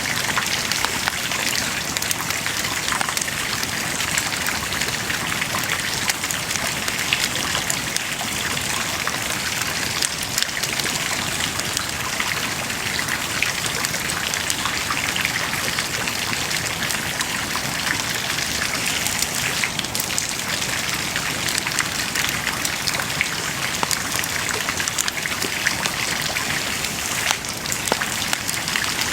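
Wood bonfire burning steadily, crackling with a dense stream of small pops and ticks over a hissing rush.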